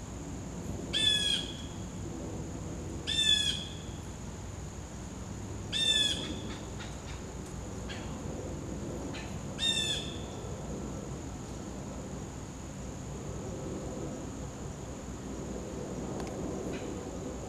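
A bird calls four times, a short call every three or four seconds, over a steady high-pitched insect drone.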